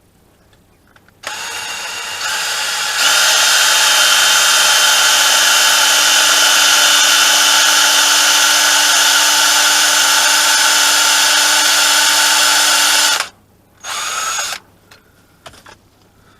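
Electric drill motor running under load, drilling out the broken plastic of a crankshaft sensor stuck in its bore. It starts about a second in, speeds up sharply a couple of seconds later and runs steadily for about ten seconds. It then stops abruptly and gives one more short burst.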